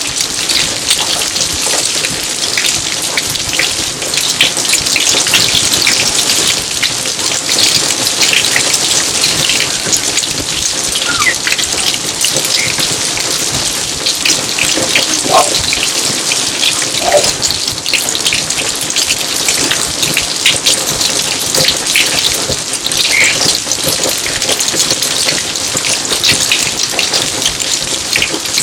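Steady rain falling on a garden, a dense patter of countless drops. A few brief pitched plinks stand out around the middle.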